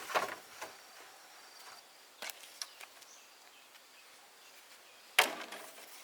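A few light clicks and knocks, then one sharp, loud knock about five seconds in that dies away quickly.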